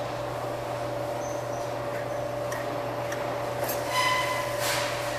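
Claw machine and arcade ambience: a steady electronic hum with a few clicks, and a short machine beep about four seconds in.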